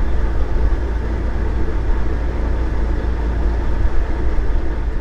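Fishing boat's engine running steadily, a deep continuous rumble with hiss from wind and water over it.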